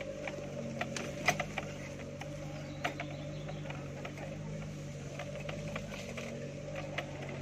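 Suzuki Vitara's engine running steadily at low speed on a rough dirt track, with scattered sharp clicks and knocks from the vehicle jolting along.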